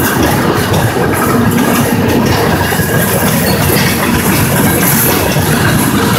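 Empty intermodal container flatcars rolling past close by: a loud, steady rumble and rattle of steel wheels on the rails.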